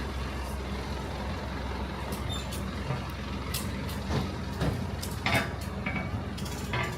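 A heavy vehicle's engine idling with a steady low hum. Several short hissing or clattering bursts come over it in the second half.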